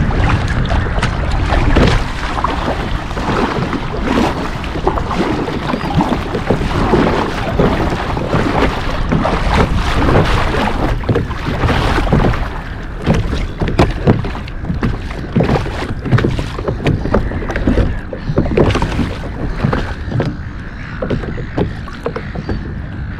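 Water splashing and sloshing against a kayak's hull on choppy water, in irregular slaps.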